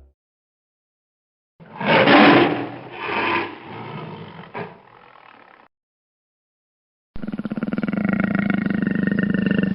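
A big cat roaring in three surges that fade one after another. After a short silence, a steadier, evenly pitched animal call starts about seven seconds in.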